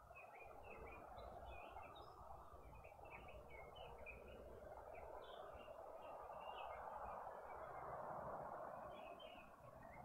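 Faint bird chirping: many short, high, irregular chirps over a steady background hiss.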